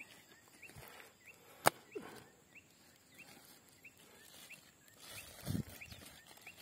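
A bird repeating a faint, short rising chirp a little under twice a second. A single sharp click sounds about a second and a half in, and a brief rustle comes near the end.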